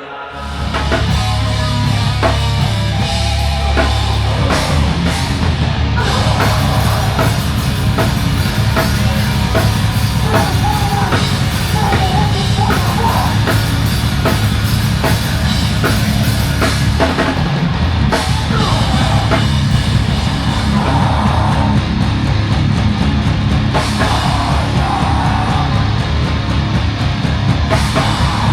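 Loud, heavy rock music driven by a drum kit, which comes in abruptly about half a second in and carries on without a break.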